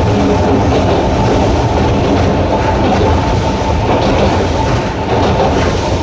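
Narrow-gauge electric train running on the Hokusei Line, its nose-suspended traction motors giving a steady whine over the rumble and clack of wheels on the rails.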